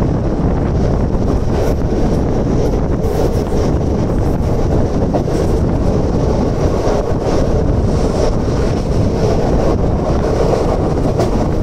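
Mumbai suburban electric local train running at speed, heard from its open doorway: wind buffeting the microphone over the steady rumble of the wheels on the track.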